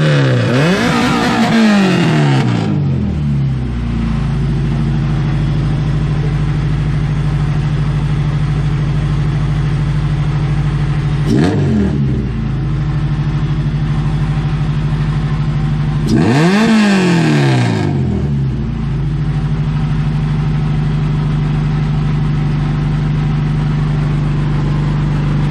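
Honda CRX's B20Z2 four-cylinder engine idling steadily after finally starting. It is revved and let fall back three times: a long rev at the start, a short blip near the middle, and another rev about two-thirds through.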